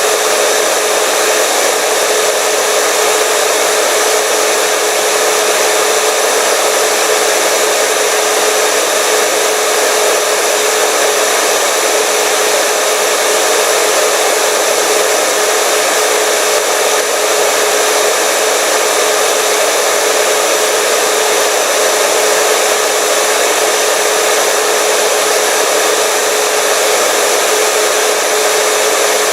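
Hair dryer running steadily: a continuous rush of air with a steady motor hum and whine, loud and unchanging.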